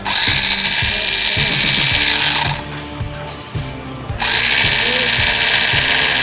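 Small electric motor whirring in two bursts of about two and a half seconds each, a steady high-pitched whine, with a short gap between them.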